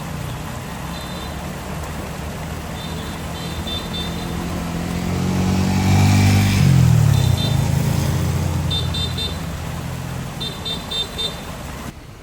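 A vehicle engine running in slow road traffic grows louder as it passes close about halfway through, its pitch dropping as it goes by. Groups of short, rapid high-pitched toots repeat every couple of seconds.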